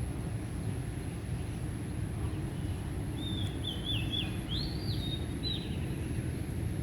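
A songbird sings a short phrase of quick, rising whistled notes about three seconds in, over a steady low background rumble.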